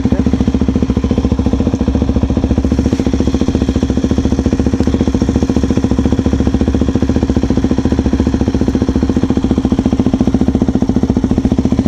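Vehicle engine running steadily at constant speed, heard close, a fast even beat of firing pulses.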